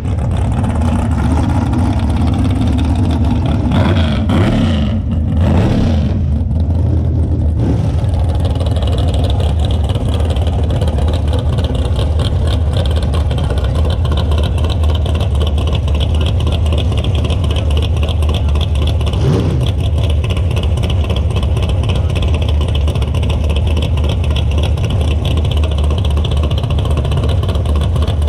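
Drag-race car engine running steadily with a deep, rapid pulsing rumble, its pitch briefly rising and falling about four to six seconds in and again near twenty seconds.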